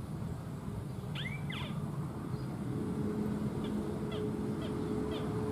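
Bird calling in a marsh: one loud arched, rising-then-falling call about a second in, then a run of short high chirps. A steady low hum joins about halfway through.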